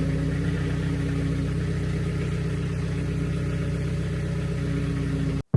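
John Deere 4044M compact tractor's diesel engine idling steadily, then cutting off suddenly near the end.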